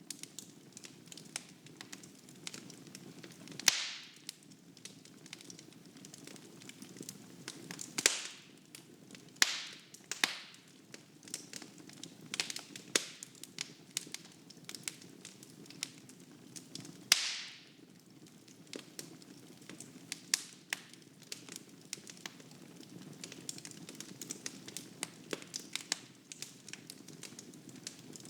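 Wood fire crackling in a fireplace: a steady scatter of small sharp crackles with a handful of louder pops, the loudest about 4, 8 and 17 seconds in, each dying away briefly.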